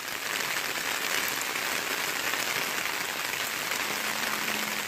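Rain falling steadily on a paved street, an even hiss, with a faint steady hum joining near the end.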